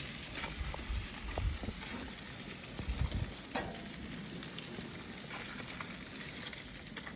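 Frozen jalapeños and other food sizzling on a gas grill: a steady, even hiss with a few faint crackles.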